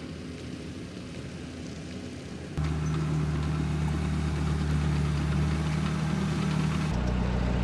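An engine idling steadily, growing clearly louder about two and a half seconds in.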